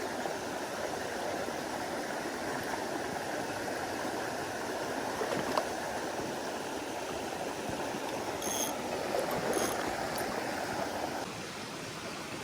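Mountain stream water rushing steadily, with one sharp click about halfway through and a few faint high-pitched chirps later on; the rushing drops a little in level near the end.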